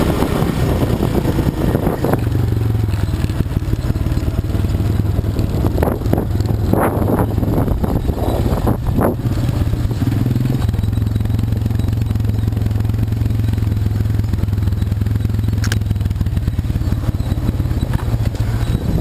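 ATV engine running steadily while riding, its note shifting about ten seconds in, with a few knocks and rattles between about six and nine seconds in.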